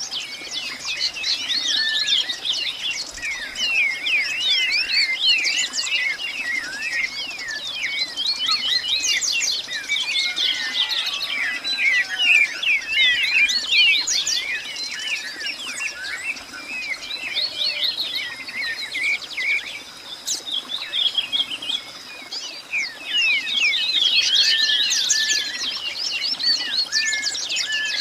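Many birds chirping and calling together in a dense chorus of quick, high chirps and short whistled notes. The chorus thins out for a stretch in the middle, then fills in again near the end, over a faint steady high tone.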